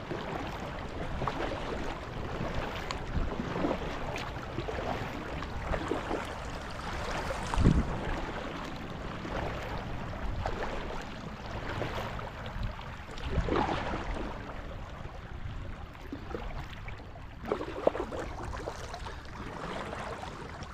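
Kayak paddling on calm water: the paddle blades dip and splash at an uneven pace, with a steady wash of water and air. There are two louder thumps, about eight seconds in and again near eighteen seconds.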